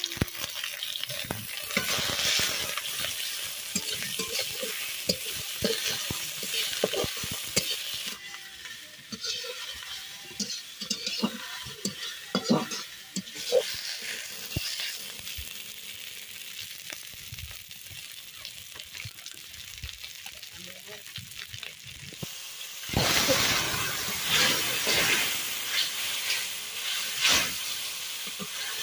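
Onions, green chillies and ginger-garlic paste frying in hot oil in a metal wok, sizzling, while a metal spatula scrapes and clinks against the pan in quick stirring strokes. About 23 seconds in the sizzle suddenly grows louder and hissier as the masala turns wet.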